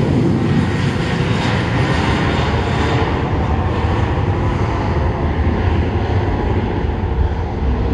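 Jet airliner engines running loud and steady close by, with the higher hiss thinning after about three seconds as the aircraft moves away.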